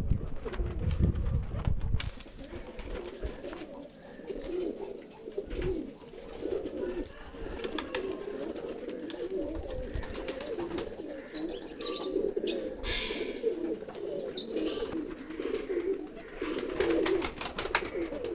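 Pigeons cooing continuously in low, warbling coos, with scattered short clicks and knocks.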